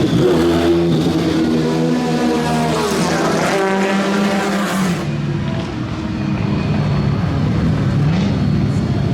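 Jaguar XJR-11's 3.5-litre twin-turbocharged V6 race engine running hard on track, its note rising and falling repeatedly as it revs up and lifts off through gear changes.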